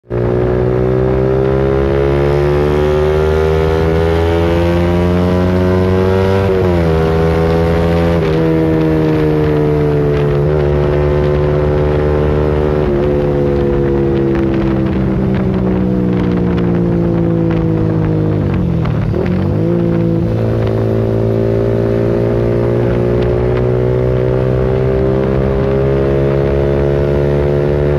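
Suzuki Satria FU Fi 150 cc single-cylinder four-stroke running through a replica CLD Monster aftermarket exhaust. The engine note climbs steadily, drops sharply about seven and eight seconds in as if shifting up, sags, dips briefly after about nineteen seconds, then climbs again.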